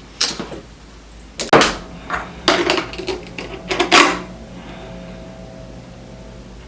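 Roller skate wheels and bearings being handled while bearings are fitted into the wheels: a handful of sharp knocks and clatters over the first four seconds, then quiet handling.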